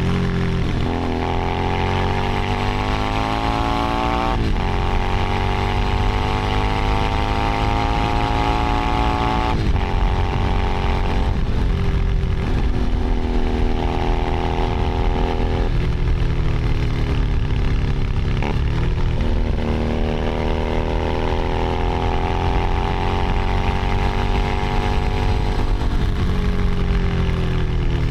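Keeway SCR 250V motorcycle's V-twin engine under way. Its pitch climbs steadily through each gear, with several upshifts where it breaks off and restarts lower, then holds steady for a while. The pitch falls near the end as the bike slows.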